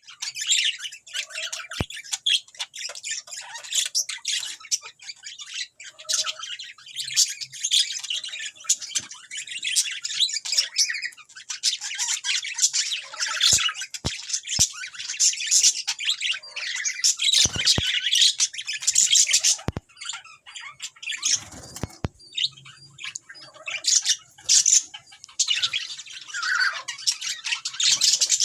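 Small parrots, a lovebird and a budgerigar, chattering and squawking in rapid, continuous high calls, with a few sharp clicks among them.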